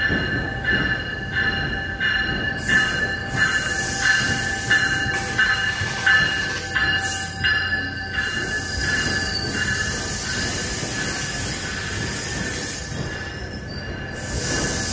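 GO commuter train moving through a station, its wheels squealing in steady high tones over the rumble of the cars. For the first eight seconds or so the squeal pulses about every two-thirds of a second, then it holds steady, with bouts of rushing, hissing noise.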